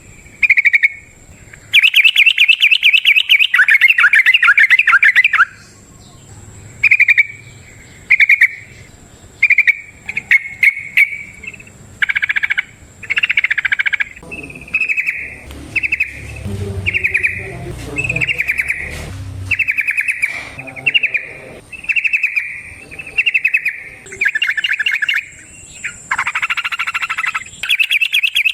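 Yellow-vented bulbul (trucukan) singing in its long, rapid 'ropel' style: a long fast trill about two seconds in, then a string of short chirping phrases about once a second, and another long dense phrase near the end.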